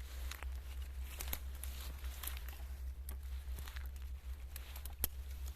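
Dry grass and leaves crackling and rustling in short, irregular crinkles as a grass bird's nest is handled and opened, over a steady low rumble.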